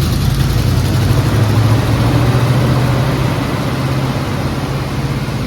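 Chevrolet 305 H.O. small-block V8 running steadily on its first start-up after being swapped in and having its timing set. It swells slightly a second or two in, then settles back.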